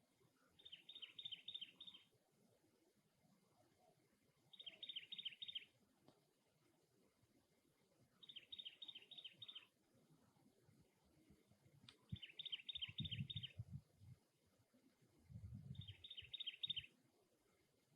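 A cactus wren singing its harsh, rapid chugging series of notes, five bouts of about six notes each, repeated every few seconds. A sharp click comes near the middle, and there are two short low rumbles in the second half.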